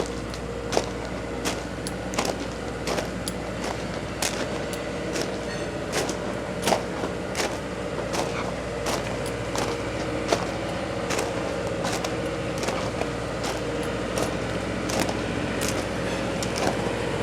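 Footsteps at a walking pace, about one step every 0.7 s, each a short sharp crunch, over a steady low hum with a faint held tone.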